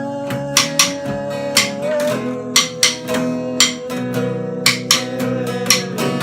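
Acoustic guitar strummed in a steady rhythm, with sharp strokes about twice a second over ringing chords and a held note above them that changes pitch twice.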